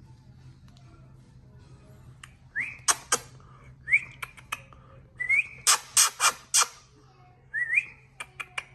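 A person giving short rising whistles, about five, with quick sharp clicking sounds in between, the kind used to get puppies' attention.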